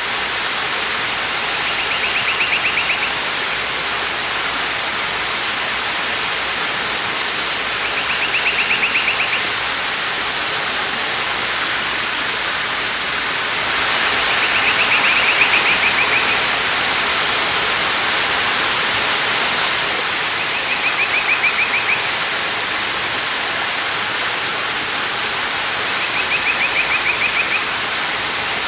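Waterfall rushing steadily, with the rush swelling a little in the middle. Over it a bird gives a short rapid trill five times, about every six seconds.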